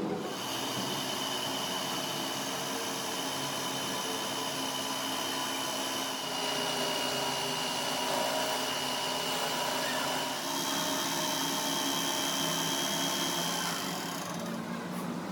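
A power tool running steadily with a high whine, its pitch and level stepping slightly about six and ten seconds in, and easing off near the end.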